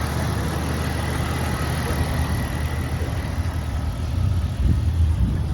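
1996 Jeep Cherokee XJ's 4.0-litre inline-six engine idling steadily, a low even rumble that grows slightly louder near the end.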